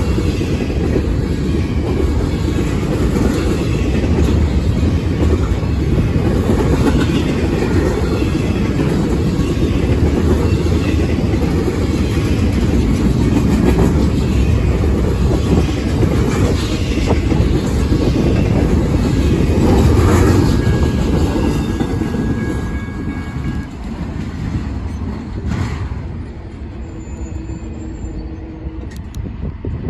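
Double-stack intermodal freight cars rolling past on the rails with a steady rumble and wheel clickety-clack. A thin high tone sounds briefly about twenty seconds in, and then the noise dies away as the end of the train passes.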